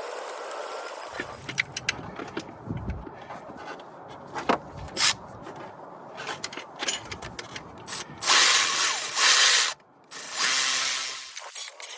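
Hand tools working on metal under the hood: scattered clicks and ratchet-like clicking. Two loud bursts of rushing, hissing noise come about eight and ten seconds in.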